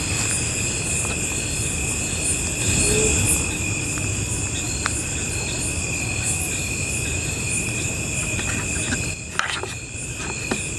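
Crickets and other insects trilling steadily in several high pitches, over a low background rumble. About three seconds in, a brief faint call rises and falls in the middle range: an unexplained sound that, to the one listening, resembles a human voice.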